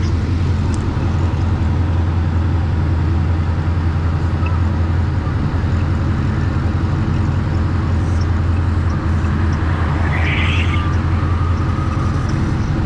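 Steady low drone of a car engine running, the supercharged Corvette's V8, with a brief higher-pitched noise about ten seconds in.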